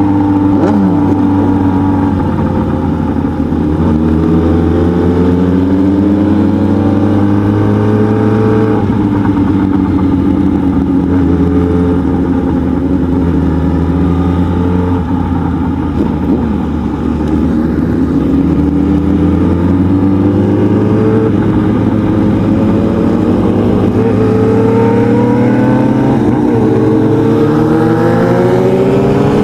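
Motorcycle engine running hard at speed, its pitch climbing and dropping again and again as it accelerates and shifts gears, with a long rising climb near the end.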